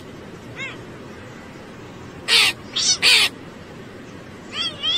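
Crow cawing: three harsh caws in quick succession about two and a half seconds in. Near the end comes a quicker run of higher, wavering calls.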